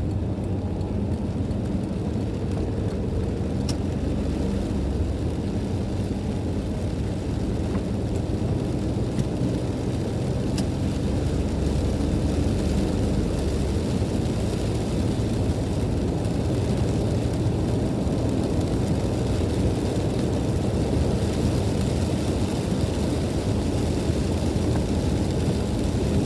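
Steady road noise inside a moving car on a wet road: a low engine and tyre rumble with a hiss of tyres on water that grows a little stronger in the second half.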